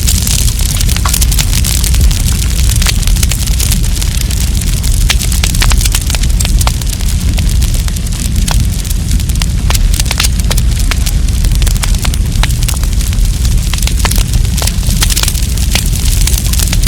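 Campfire burning, wood crackling with many irregular sharp pops over a steady low rumble.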